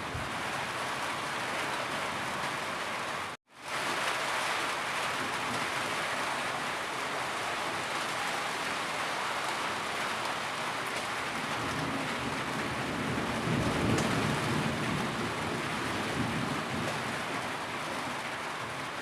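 Steady heavy rain, a dense even hiss. It cuts out completely for a split second about three and a half seconds in, and a low rumble swells beneath it between about twelve and sixteen seconds.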